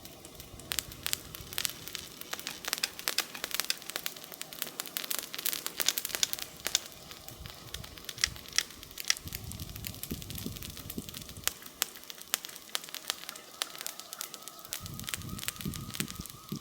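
Wood campfire crackling, with frequent irregular sharp pops and snaps. Two spells of low rumble come about nine seconds in and again near the end.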